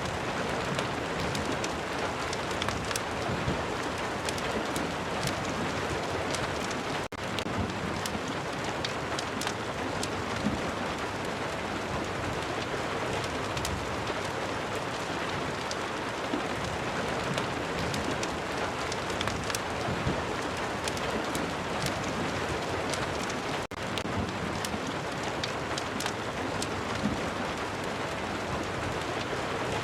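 Steady heavy rain ambience with scattered sharp crackles like a wood fire burning. The sound briefly drops out twice.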